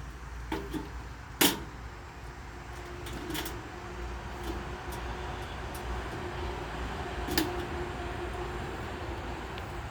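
A few scattered knocks and clatters, one sharp and loud about a second and a half in and another near seven seconds, over a steady low hum with a faint held tone.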